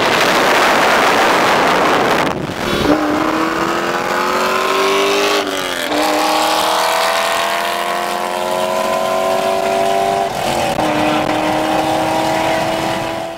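Rushing wind and road noise for the first couple of seconds, then a car engine pulling hard at full throttle, its pitch climbing steadily and dropping back twice at upshifts, heard from inside a car at highway speed.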